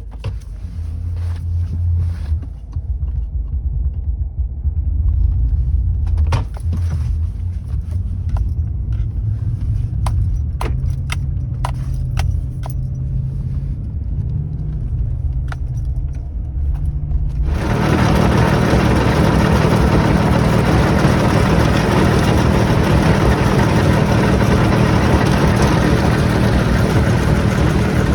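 Vehicle engine running under load as the driver tries to drive out of snow with traction control off, with scattered sharp clicks. About two-thirds of the way through, a loud steady rushing noise suddenly comes in over the engine and holds.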